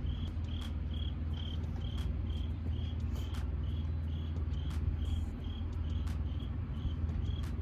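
Low, steady drone of an idling semi truck's diesel engine, with a short high-pitched beep repeating evenly about two and a half times a second.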